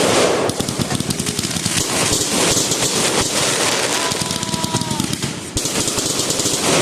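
Fireworks crackling: a dense, unbroken run of rapid sharp pops, with a brief thin whistle about four seconds in.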